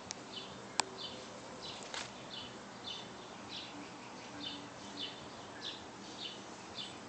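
A steady, even series of short high chirps, about two a second, from a small animal outdoors, with one sharp click about a second in.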